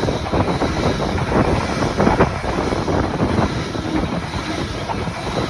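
A Class 345 Elizabeth line electric train passing close by: a steady loud rush of wheel and rail noise, with wind on the microphone.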